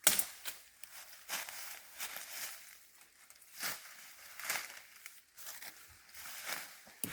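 Footsteps crunching and rustling through dry leaf litter and undergrowth, an uneven series of soft crackles with a sharper snap at the start.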